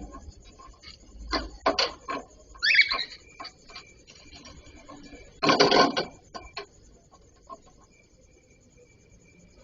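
Cockatiels moving about in their cage: scattered knocks and scraping, a short rising chirp about three seconds in, and a louder burst of rustling and clatter around five and a half seconds.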